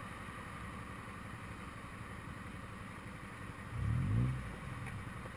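Road vehicle driving, a steady low rumble of engine and road noise, with an engine revving up in a short rising pitch about four seconds in.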